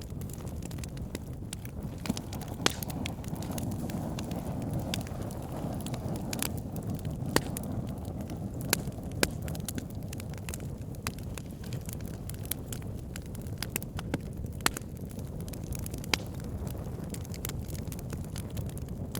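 Wood fire burning: a steady low rush of flames with logs crackling, small sharp pops scattered throughout and about half a dozen louder ones.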